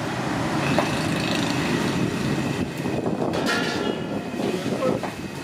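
Steady street traffic noise of vehicles running past, with a brief pitched tone, such as a horn, about halfway through.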